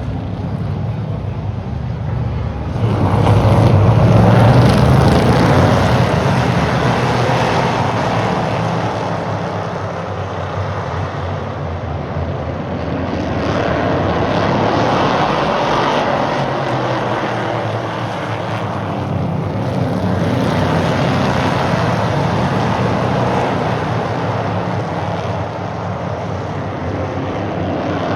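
Stock cars racing on an oval track, a steady engine drone that swells each time the pack of cars comes past, loudest about three seconds in and swelling again twice later.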